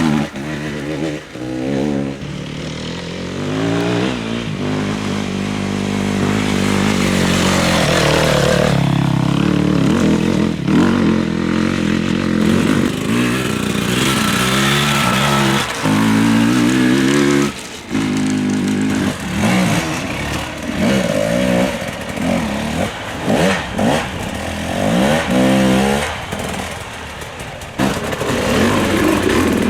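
Enduro motorcycle engines revving hard and easing off again and again, the pitch climbing and falling with the throttle, with brief sudden drops as the throttle is shut.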